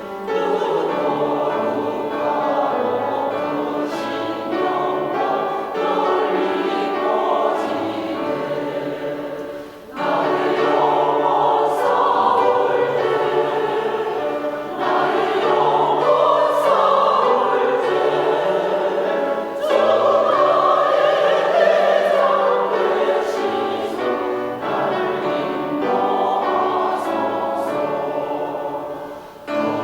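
Church choir singing a hymn in long sung phrases, with a short breath between phrases about ten seconds in.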